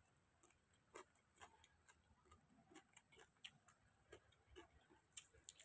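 Near silence broken by faint, irregular clicks and small crunches, about two a second, from someone eating a meal of grilled field rat by hand.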